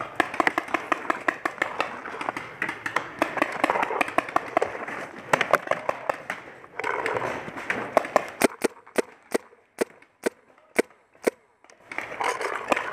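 Paintball markers firing in rapid strings of sharp pops, over the rustle of a player moving. Late on, a clear burst of shots at about four a second stands out against a quieter background.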